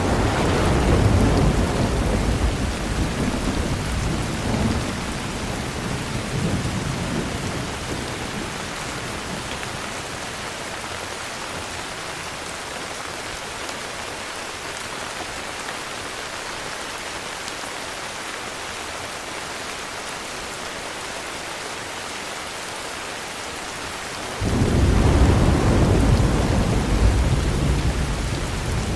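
Heavy rain falling steadily, with a long rumble of thunder that fades away over the first several seconds, and a second rumble of thunder that starts suddenly near the end.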